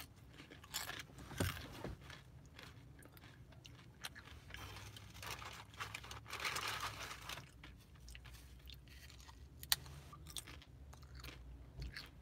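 Close-up chewing and crunching of a crisp chip, with scattered sharp crunches, a denser stretch of chewing midway and one sharp crack near the end.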